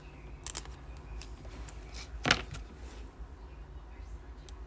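Trading cards and packs being handled on a table: a few faint clicks and rustles, with one sharper click about two seconds in, over a low steady hum.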